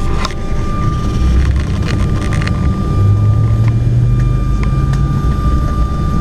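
Jet airliner cabin noise while taxiing: a loud, steady low rumble from the engines and the rolling plane, with a thin steady whine above it. A deeper hum joins about three seconds in, and there are a few light clicks.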